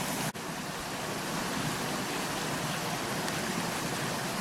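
Steady rush of a forest river's running water, with a momentary break shortly after the start.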